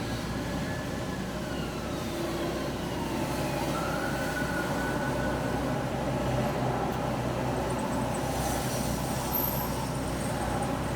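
A car driving on a wet road: steady tyre and road noise over a low engine hum. Faint whining tones slide down and then up in pitch during the first half.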